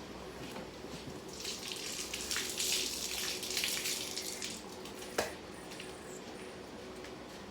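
Water running from a tap for about three seconds, with scattered small clicks, then a single sharp knock.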